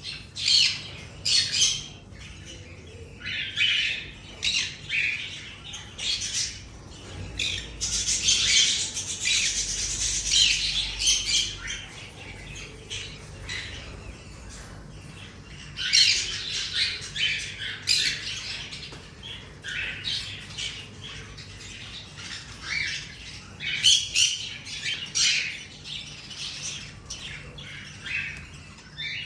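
Many aviary birds calling, with short calls overlapping constantly and growing densest about a quarter of the way in.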